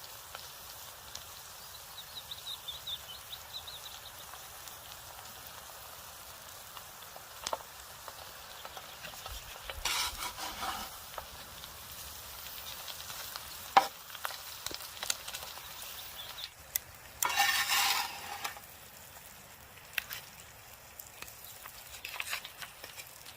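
Food sizzling in a pan, with scattered knocks and stirring sounds and two louder hissing bursts, one near the middle and one about three-quarters through.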